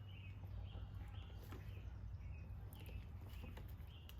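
Faint bird chirping: short repeated calls, about two a second, over a steady low hum, with a couple of faint clicks.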